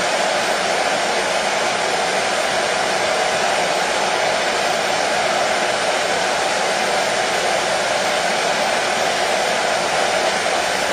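Electric hair dryer running steadily: a constant whooshing motor-and-fan noise, strongest in the lower middle, with no change in speed.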